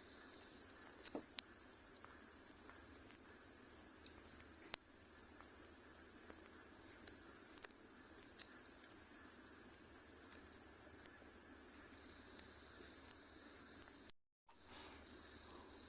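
Night insects trilling in a steady, high-pitched chorus that swells and fades in regular pulses a little over once a second. The chorus drops out for a moment near the end.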